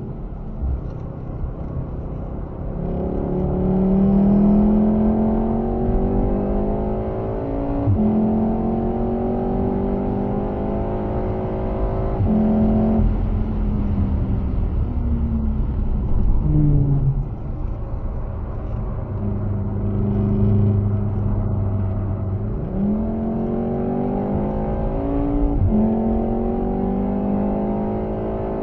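Volkswagen Golf VII R's turbocharged 2.0-litre four-cylinder, heard from inside the car under hard acceleration. The revs climb and drop back at upshifts about 8 and 13 seconds in, ease off while braking, then climb steeply again from about 22 seconds in, with another shift near 26 seconds.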